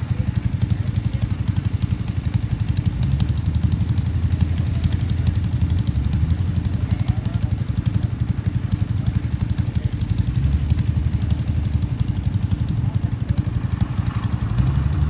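Engine of a rice harvester or farm tractor running steadily, with an even, fast firing pulse.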